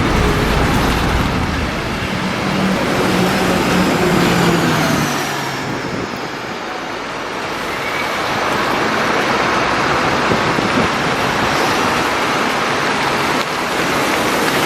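Scania diesel engine of a Marcopolo Paradiso 1800 double-decker bus running as the bus moves past, heard over road and traffic noise. The engine hum is plain for the first few seconds, then gives way to a steady rush of tyre and traffic noise that eases off slightly around the middle and builds again.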